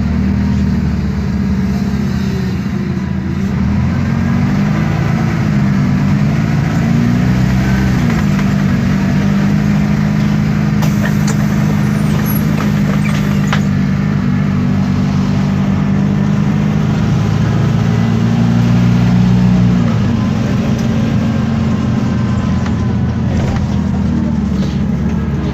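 Isobus City 1200 bus under way: its MAN D0836 six-cylinder diesel runs steadily through the ZF Ecomat automatic gearbox, the engine pitch shifting several times as the gearbox changes gear. The engine eases off about twenty seconds in.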